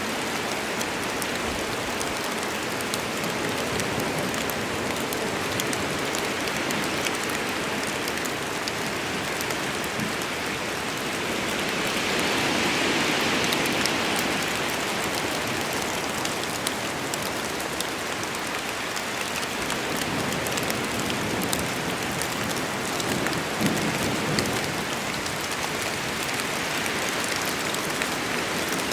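Steady heavy rain falling in a forest, a dense hiss of countless drops, swelling briefly louder about halfway through.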